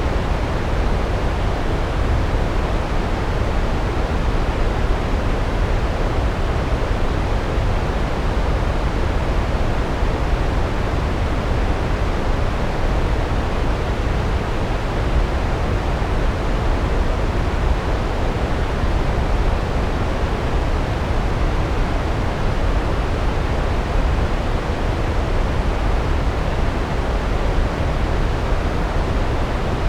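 Large waterfall crashing onto rocks: a steady, deep rush of falling water, heaviest in the low end, with no change throughout.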